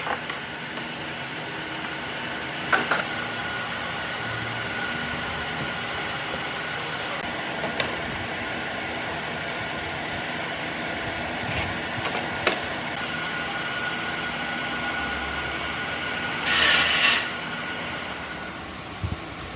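Steady machine hum with a faint steady tone, broken by a few sharp knocks; a loud short hiss about three-quarters of the way through, after which the hum drops away.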